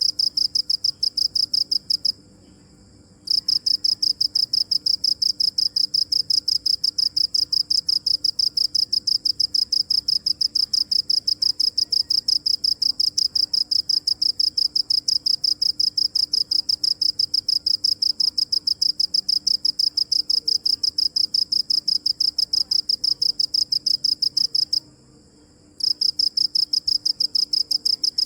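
A cricket chirping: a fast, even train of high-pitched chirps that stops for about a second twice, a couple of seconds in and again near the end.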